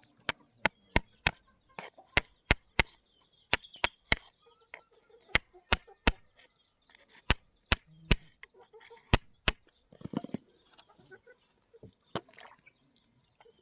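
Stones knocking sharply against hard stone, about twenty crisp clicks at an uneven pace that stop after nine or ten seconds, followed by a brief rustle.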